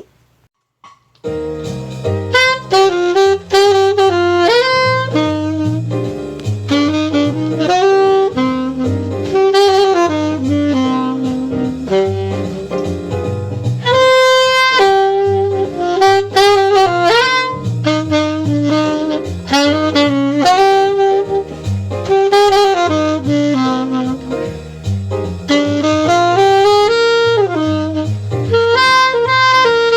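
Saxophone playing a jazz melody over a low accompaniment of bass notes. It starts a little over a second in, after a brief silence.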